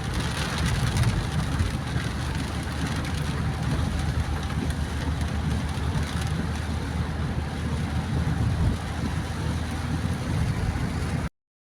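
Car driving on a rain-soaked road: a steady low rumble of engine and tyres with the hiss of water and rain over it. It cuts off suddenly near the end.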